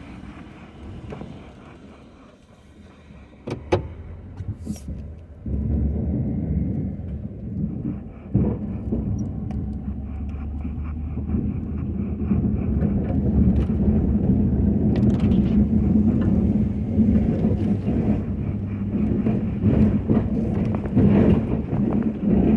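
Ford F-250 pickup's engine running, with a couple of sharp clicks about four seconds in. The engine then steps up about five seconds in and grows louder again from about eleven seconds, working under load.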